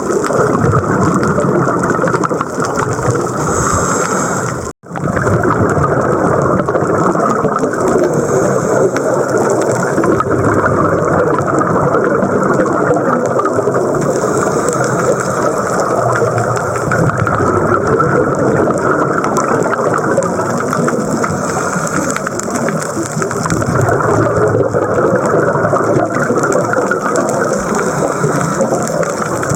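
Steady rushing water noise as heard through an underwater camera housing on a scuba dive, with a faint hiss that swells every few seconds. The sound drops out sharply for an instant about five seconds in.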